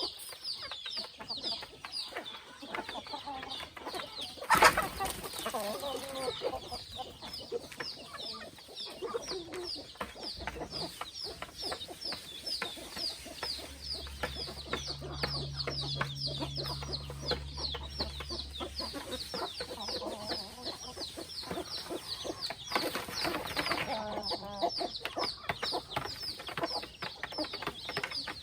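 A flock of chickens clucking over a constant run of high, short, falling peeps, several a second. A loud knock about four or five seconds in, and a low hum for several seconds around the middle.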